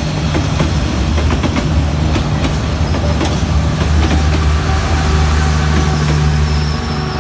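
Passenger coaches rolling past close by, wheels clicking over the rail joints. A steady diesel drone grows louder in the second half as the louvred generator car at the rear of the train passes.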